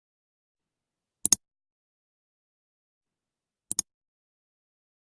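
Two short double clicks, about two and a half seconds apart, in otherwise dead silence.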